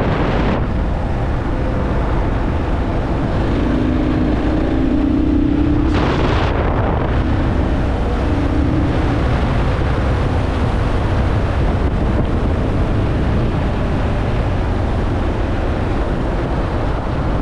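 Kawasaki KLR single-cylinder dual-sport motorcycle running under way, with heavy wind rush on the microphone.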